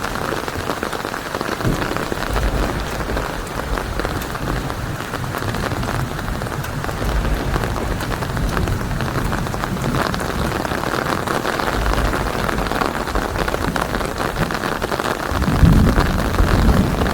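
Steady heavy rain hissing, with low rolling thunder rumbling underneath; the thunder swells loudest near the end.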